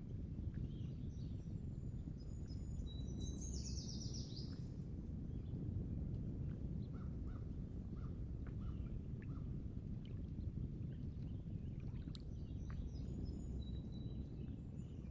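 Steady low rumble of coastal outdoor ambience with small birds chirping: a burst of high chirps a few seconds in, a string of short, lower notes in the middle, and more high chirps near the end.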